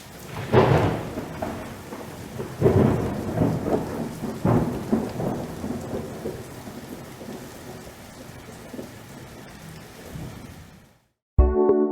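Thunder rolling over steady rain, with several rumbles in the first half that then fade out near the end.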